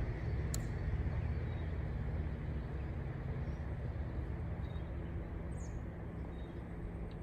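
Outdoor ambience: a steady low rumbling noise, with a few short high chirps from a small bird.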